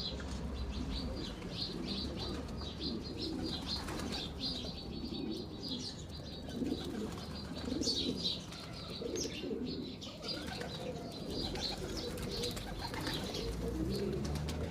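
Domestic flying pigeons cooing, with rapid high chirping throughout.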